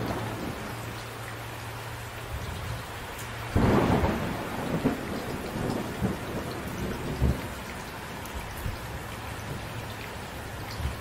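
Steady rain with thunder: a rumble fading out at the start, then a sudden thunderclap about three and a half seconds in that rumbles away over the next few seconds.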